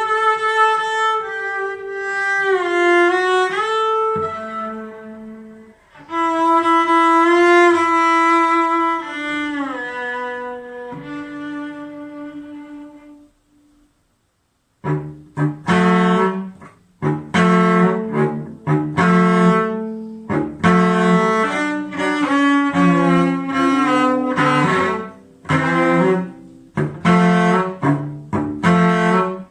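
Solo music: a slow melody of long held notes that slide in pitch, then after a brief stop, plucked string chords in a steady rhythm.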